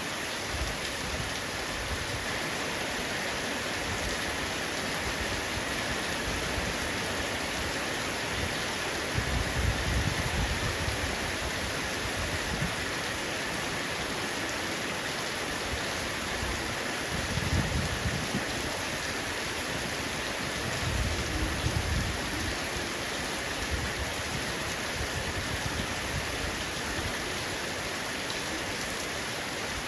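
Heavy rain falling steadily on a roof in an even hiss. Brief low rumbles come through three times, about ten, eighteen and twenty-two seconds in.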